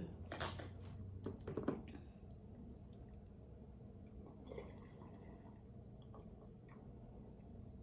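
Faint close-up eating sounds: chewing with wet, squishy mouth noises, and a few short clicks in the first two seconds.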